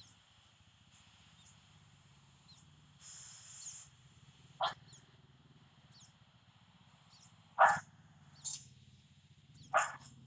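Three short, sharp animal calls spaced a few seconds apart, with faint high chirps between them over a low steady hum.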